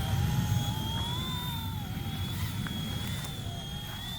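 RC ERA 186C Pro mini RC helicopter's motor and rotor whining, the pitch wavering slightly as the throttle shifts, over low wind rumble on the microphone.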